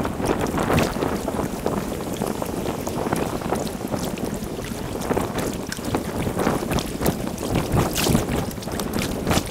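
Kayak paddling played back sped up: paddle blades splashing and water swishing in quick irregular strokes, with wind buffeting the microphone and a couple of sharp knocks near the end.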